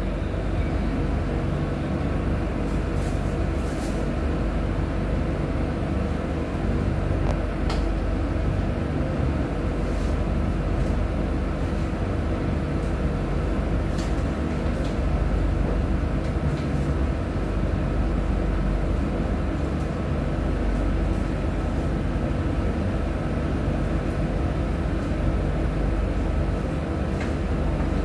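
Steady low rumble inside a passenger train car as it rolls slowly along the track, with a faint steady hum and a few light clicks scattered through it.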